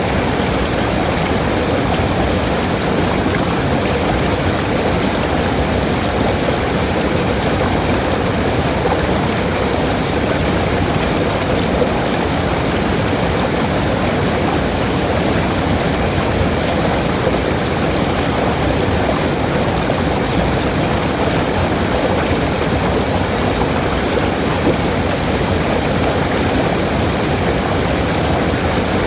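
Waterfall: falling water rushing in a steady, unbroken wash.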